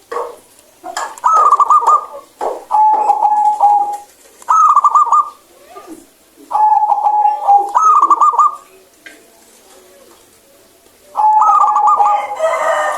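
Zebra dove (perkutut) cooing: repeated phrases, each a held clear note followed by a quick rolling run of notes, with a pause of about two seconds before the last phrase.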